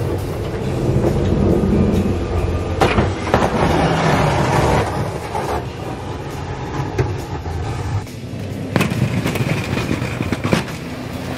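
Snow-plow pickup truck's engine running as its steel Western plow blade scrapes and pushes snow over the pavement, with a few sharp knocks about three seconds in and again near the end.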